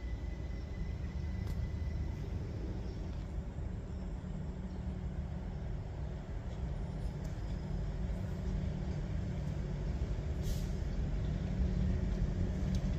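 Great Northern Class 387 electric multiple unit approaching and running in slowly alongside the platform: a steady low rumble that grows louder as it nears, with a brief hiss about ten and a half seconds in.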